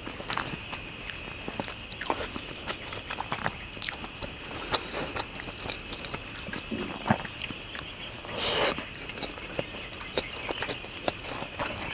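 Close-miked chewing, with irregular wet smacks and clicks as someone eats fish curry and vegetables with a ngapi dip, and one louder slurp or crunch past the middle. A steady, high, evenly pulsing insect trill runs behind it.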